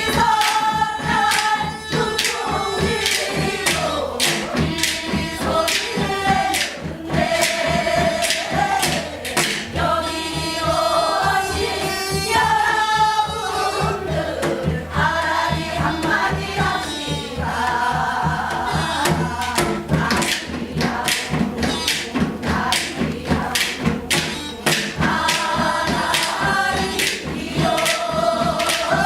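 Several voices singing a Korean folk song (gyeongseodo sori) together, over a quick run of sharp percussion strokes.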